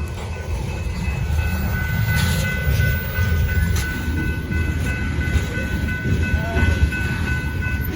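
Freight train rolling past, a steady low rumble of railcars on the rails with some clickety-clack and a few steady high-pitched tones above it.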